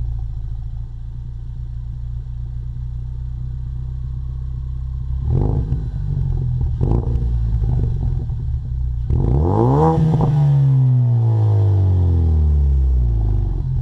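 2015 Mustang EcoBoost's turbocharged 2.3-litre four-cylinder idling through a Magnaflow Competition exhaust, blipped twice about a third and halfway in. Near the end it is revved hard once, the pitch climbing quickly and then falling slowly back to idle over a few seconds.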